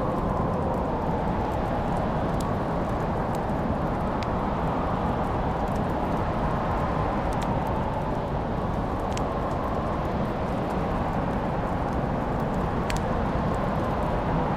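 Wood fire crackling in a fireplace, with scattered sharp pops over a steady low rushing roar.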